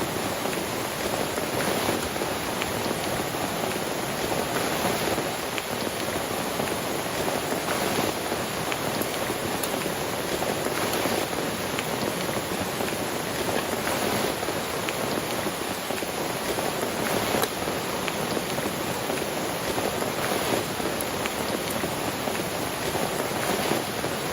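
Steady rain falling, a constant hiss with scattered drop taps.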